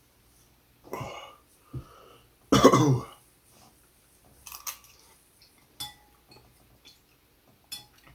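A man coughing and clearing his throat, the loudest cough about two and a half seconds in, a reaction to very hot, chili-spiked soup. It is followed by a few light clinks like a spoon against a bowl.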